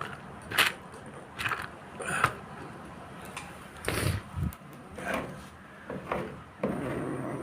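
Irregular knocks and scrapes from hand work, a dozen or so short bursts with a stronger, longer one about four seconds in.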